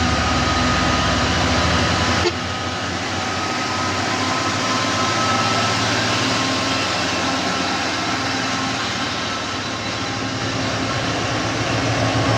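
Heavy truck engine running, with road noise. The sound changes abruptly about two seconds in.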